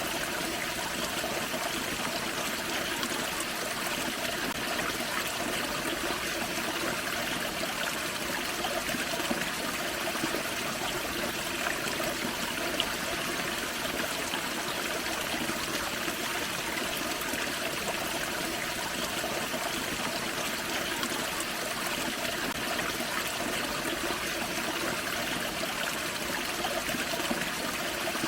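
Small waterfall on a forest creek, water splashing and trickling in a steady, even rush.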